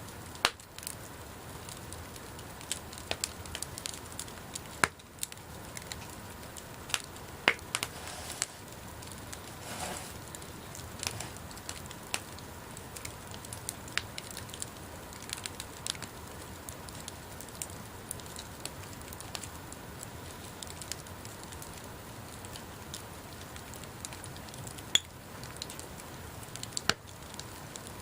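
Wood bonfire burning with a steady low hiss and irregular crackling, a few sharper pops standing out, the loudest about seven and a half seconds in.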